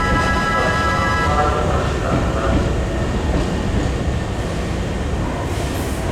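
Hankyu 8000-series electric train running at the platform, a steady low rumble of wheels and motors. A station chime or melody is still sounding at first and stops about a second in.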